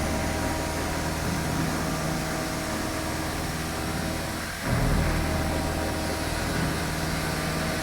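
CNC milling machine running while machining a flange, a steady mechanical hum with a few steady low tones. It dips briefly about four and a half seconds in and then comes back a little louder.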